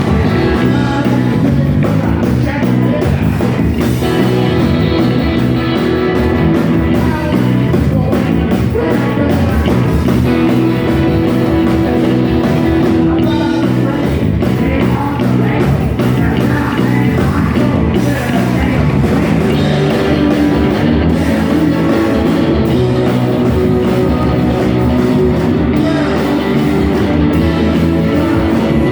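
Rock band playing live, electric guitar to the fore, with some singing.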